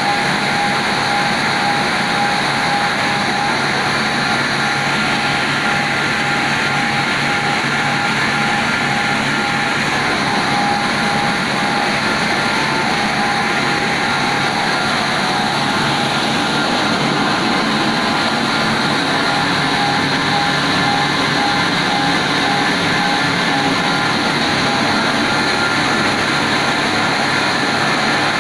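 CNC stone-cutting wire saw running steadily: continuous machine noise with a wavering whine over it.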